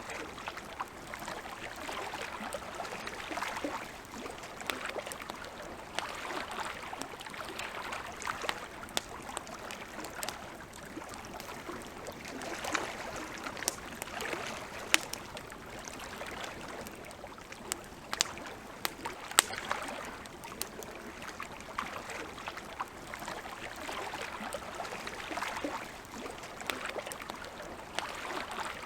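Wood campfire crackling, with frequent sharp pops and snaps, the strongest a few louder pops in the middle. Under it runs a soft wash of noise that swells and fades every few seconds.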